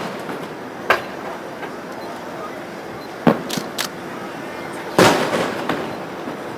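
Aerial fireworks shells bursting: a sharp bang about a second in, another a little past three seconds followed by two quicker, smaller pops, and a louder bang about five seconds in that trails off.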